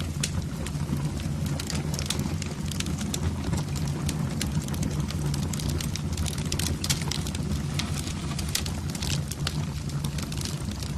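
Wood fire burning in a fireplace: a dense, irregular run of sharp crackles and pops over a steady low rumble of the flames.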